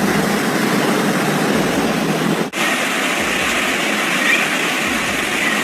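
Steady rushing-water noise of a heavy downpour and flooding, with a brief break about two and a half seconds in.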